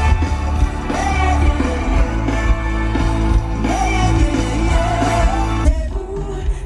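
Live pop music at an outdoor festival concert: a singer over loud bass, drums and guitar through the stage sound system, heard from the crowd.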